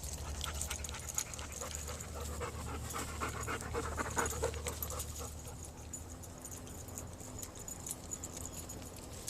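Weimaraner panting in quick, rhythmic breaths, loudest a few seconds in, over a low steady rumble.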